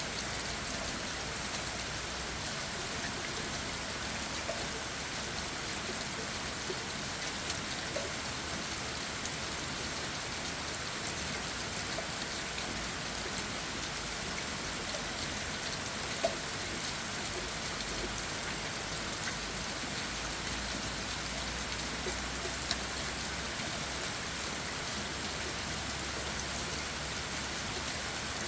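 Steady rain falling on leaves and the forest floor, with individual drops tapping here and there.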